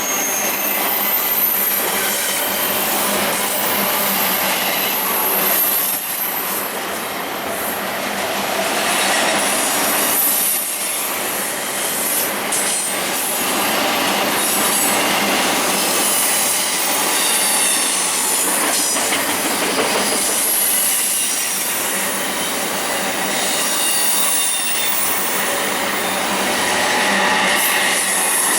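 Intermodal freight train rushing past: a continuous, loud noise of cars and wheels on the rails, laced with high steady wheel squeal. A clear squeal tone comes in near the end.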